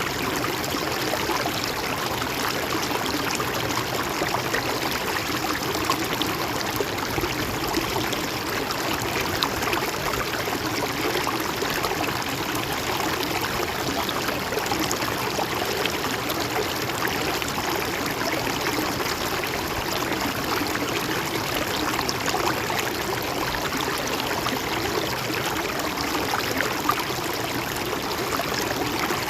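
Shallow river or stream flowing and trickling steadily, a continuous babbling rush of water with small splashes.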